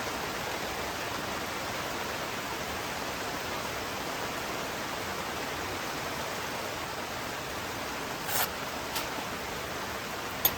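Steady hiss of heavy rain. A few short sharp taps come in the last couple of seconds, the loudest just before the end.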